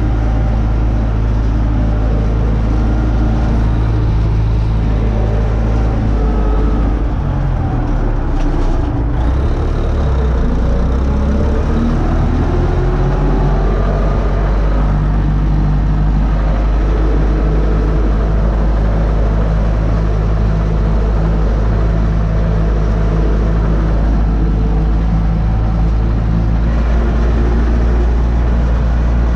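Universal U650 tractor's four-cylinder diesel engine running steadily under load while pulling a disc harrow, its note wavering and shifting in pitch for several seconds partway through before settling again.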